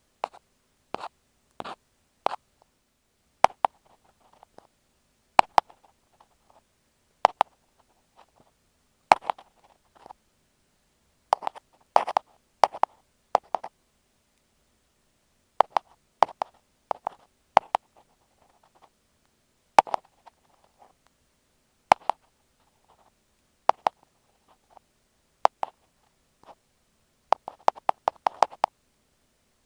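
Ear pick scraping and tapping on an earphone microphone: short, sharp crackling strokes, singly or in small clusters with gaps of a second or two, and a quick flurry near the end.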